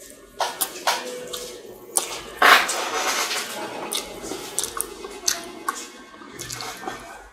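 Close-miked wet chewing and mouth clicks of a person eating a burger, irregular and moist, with one louder noisy burst about two and a half seconds in.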